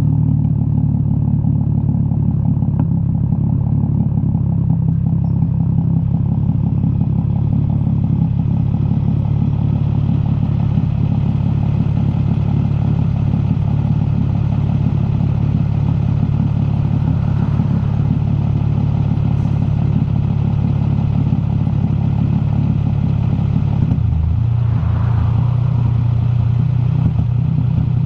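Straight-piped exhaust of an Infiniti G35's 3.5-litre V6, running with no mufflers through a single-exit exhaust. The engine note is loud and steady, then shifts a little near the end.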